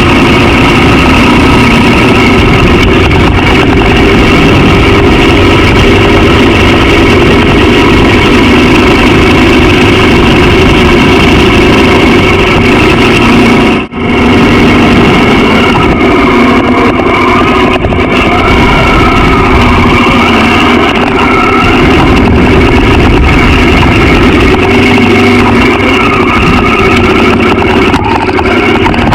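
Honda XR650L's air-cooled single-cylinder four-stroke engine running steadily under way, loud throughout, with the sound briefly cutting out about fourteen seconds in.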